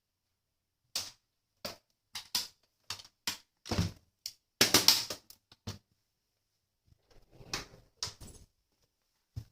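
Canister vacuum cleaner being handled with its motor off: a string of sharp clicks and knocks, with two short stretches of rustling and scraping.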